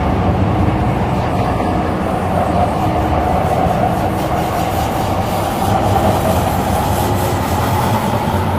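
Interior running noise of an MTR Tseung Kwan O line C-Train metro car travelling between stations: a steady rumble of wheels on rail with a faint constant hum.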